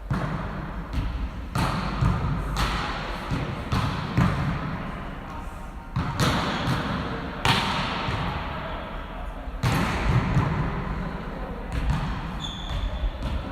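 Volleyball being struck and bouncing on a gym floor: a run of sharp impacts, about one every second or so, over background voices and hall noise.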